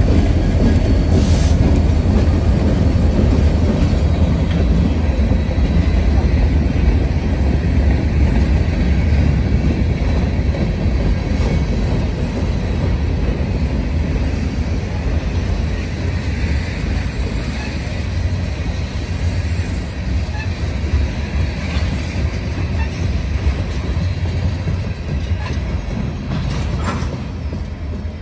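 Freight train passing close by: the diesel locomotive's engine running past at the start, then a string of boxcars, covered hoppers and tank cars rolling by, their steel wheels running over the rails in a steady low rumble that slowly fades toward the end.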